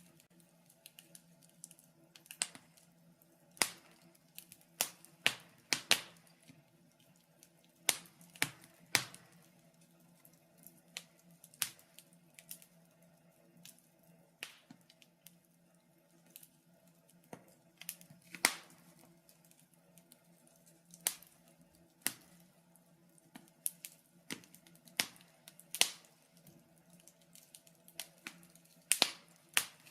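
Wood fire crackling in a fireplace: sharp, irregular pops and snaps, one every second or two, some louder than others, over a faint steady hum.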